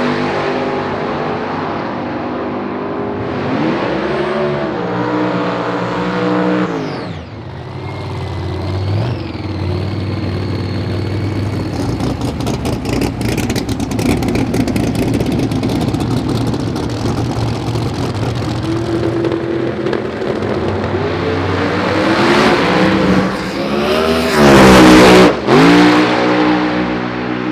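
Drag racing car engines revving in blips and running steadily, with a spell of crackling pops, then a very loud full-throttle burst of revs near the end.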